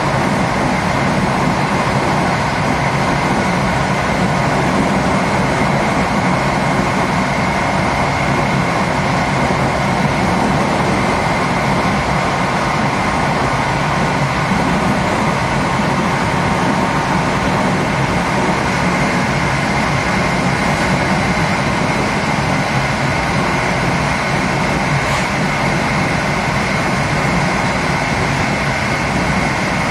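A passenger train running at speed, heard from its last carriage: a steady rush of wheels rolling on the rails, with a faint constant whine.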